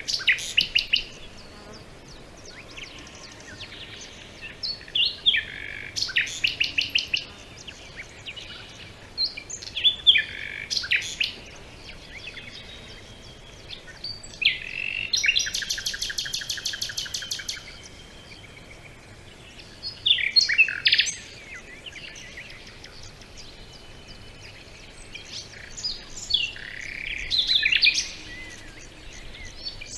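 Songbird singing in separate phrases every few seconds, several of them ending in fast trills, the longest about three seconds around the middle.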